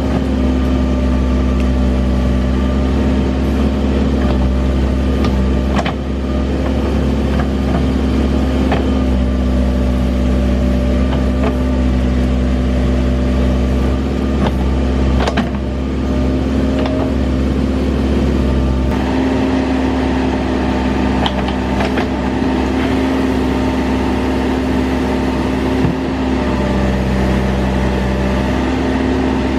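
Case 580 Super N backhoe loader's diesel engine running steadily under work, its pitch shifting slightly a couple of times. A few sharp knocks are heard over it.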